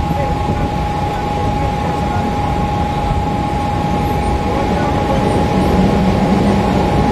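Mumbai suburban local train in motion, heard from inside the coach: a steady rumble of the wheels on the rails, with a steady high whine.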